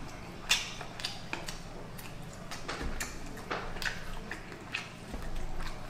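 Close-miked chewing: irregular crisp crunches and wet mouth clicks, roughly two a second, over a steady low hum.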